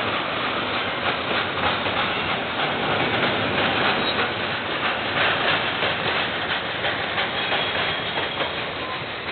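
KiwiRail train rolling past, a steady noise of wheels running on the rails with faint clicking, heard through a security camera's microphone.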